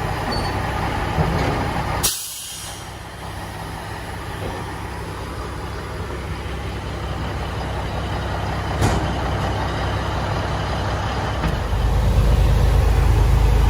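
Truck engine running, with a short sharp hiss of air brakes about two seconds in. The engine rumble grows louder near the end.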